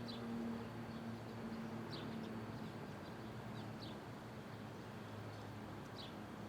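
Downtown street ambience: a steady low hum of traffic with an engine drone fading away over the first seconds, and a small bird chirping several times in short, high, dropping notes.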